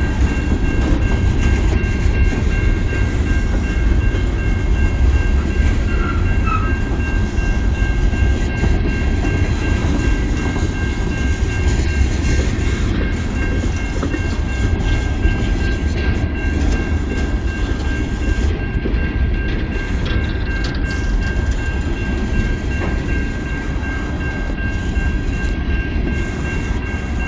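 Coal train cars rolling steadily past, a continuous heavy rumble of steel wheels on rail, with a faint steady high tone held over it.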